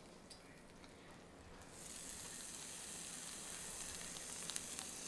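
Hot oil in a cast-iron skillet sizzling as a shrimp is laid in with tongs. The hiss starts about two seconds in and stays steady, with a few light clicks of the tongs near the end.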